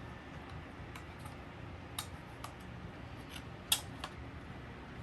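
A few faint, sharp clicks of small plastic parts being handled, the loudest about three and a half seconds in, over low room noise.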